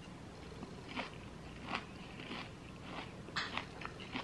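A person chewing a mouthful of chopped salad, with crisp crunches coming every half second or so. The sharpest crunch falls about three and a half seconds in.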